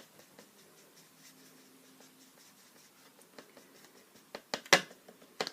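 Faint scratching of a paintbrush on paper, then a quick run of sharp clicks and knocks near the end, one much louder than the rest.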